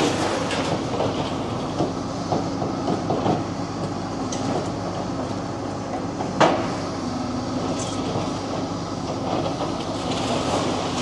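Demolition excavator's diesel engine running steadily, with scattered knocks and one sharp clank of the machine working on the concrete building about six and a half seconds in.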